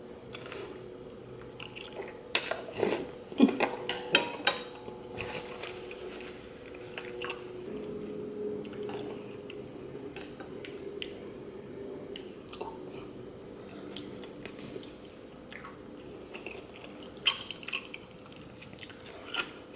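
Close-up eating sounds of a person slurping and chewing thick noodles and rice cakes in a spicy sauce, with sharp wet mouth clicks that are loudest a few seconds in and come again near the end. A faint steady hum runs underneath.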